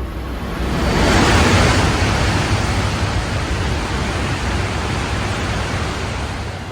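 Shinkansen train passing along the platform: a loud rushing roar with a low rumble that swells about a second in and then slowly fades.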